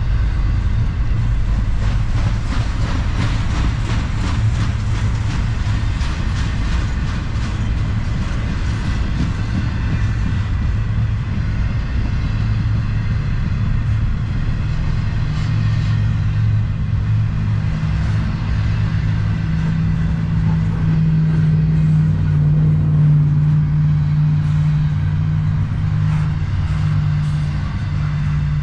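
Double-stack intermodal well cars of a freight train rolling past at speed: a steady, loud rumble of steel wheels on rail. A rapid, even clicking runs through the first several seconds.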